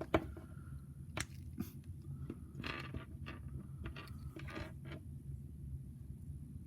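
Scattered light clicks and short rustles from handling a plastic action figure, over a steady low hum.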